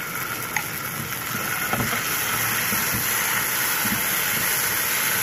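Chicken pieces frying in a hot oiled nonstick pan with a thick red sauce just added: a steady sizzle that grows a little louder about two seconds in. A few soft knocks of the silicone spoon stirring against the pan.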